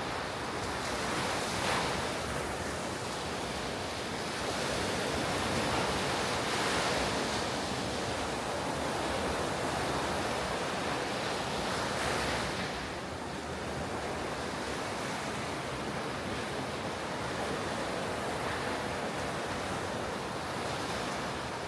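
Ocean waves breaking and washing up the beach in a steady surf roar, swelling a few times, with some wind on the microphone.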